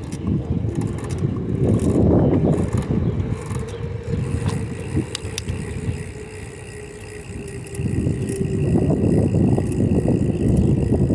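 A bicycle being ridden, heard from the bike: wind rumbling on the microphone along with tyre noise on pavement. It eases off for about two seconds past the middle, then picks up again.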